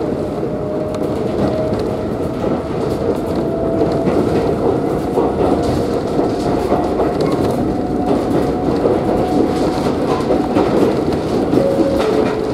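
Ride inside an electric train of the Kōnan Railway Ōwani Line: a steady rumble of wheels on rails, with a traction-motor whine rising slowly as the train gathers speed. Near the end a level-crossing bell rings briefly as the train passes it.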